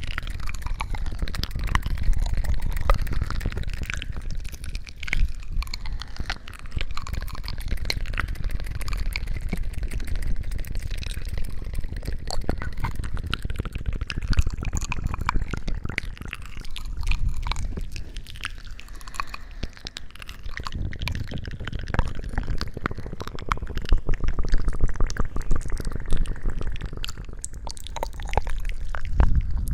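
Close-up wet squishing and crackling: dense, irregular small clicks and pops over a low rumble, as from something sticky or wet worked right against the microphone.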